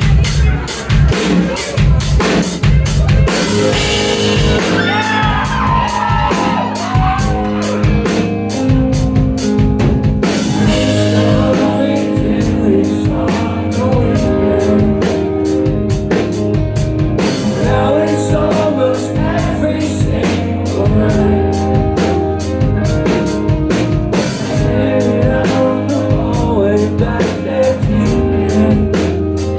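Live rock band playing loud: a drum kit with fast, steady cymbal and drum hits under sustained chords, and a singing voice.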